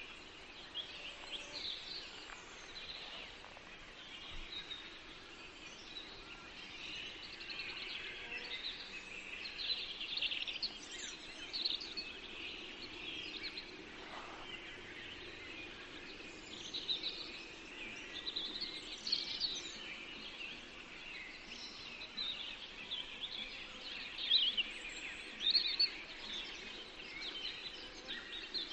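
Several small songbirds singing and chirping together in a forest, short overlapping trills and tweets over a faint steady background hiss.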